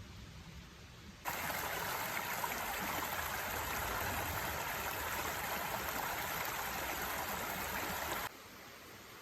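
Steady rush of running water, starting suddenly about a second in and cutting off suddenly about a second before the end.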